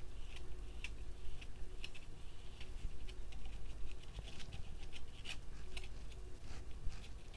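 Paintbrush dabbing and scraping on canvas: quick, irregular taps and scratches.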